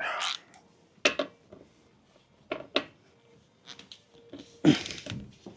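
Hand tools being handled: scattered sharp metallic clicks and clinks, a few seconds apart, with a short scuffing noise near the end.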